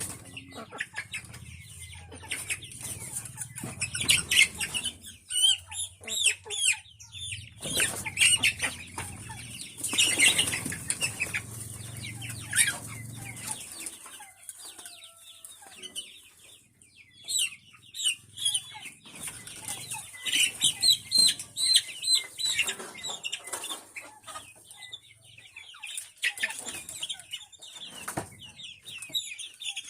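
A flock of chickens clucking and calling over one another, with bursts of wing flapping.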